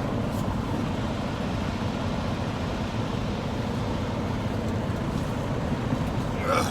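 Semi-truck diesel engine running steadily at low revs while the rig backs up slowly, a continuous low rumble.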